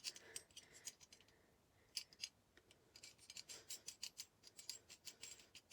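Faint, quick clicking and rubbing of a toilet tank's flush handle nut being unscrewed by hand: a couple of clicks, then an irregular run of small clicks over the last few seconds.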